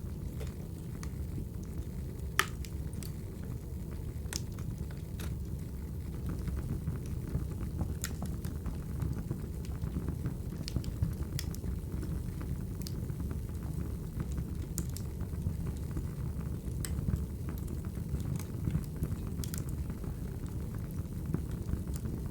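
Wood fire crackling in a fireplace: a steady low rumble of the burning fire with scattered sharp pops and snaps, the sharpest about two and a half seconds in and again around eleven seconds.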